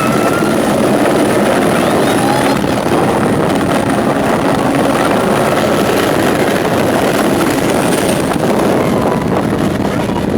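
Helicopter running: a loud, steady rush with a thin high whine over it.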